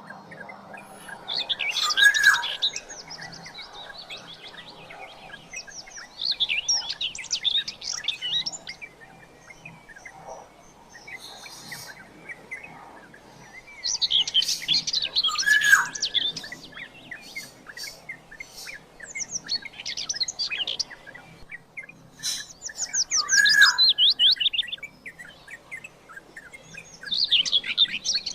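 Black-naped oriole calling in repeated bouts about every four to five seconds, each a short falling whistled note mixed with a rapid run of high chattering notes.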